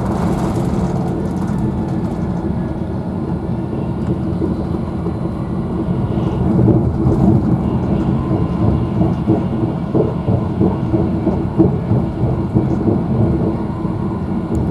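Virgin Trains Class 390 Pendolino running at speed, heard inside the passenger carriage: a steady low rumble of wheels on rail, growing rougher and louder about six seconds in.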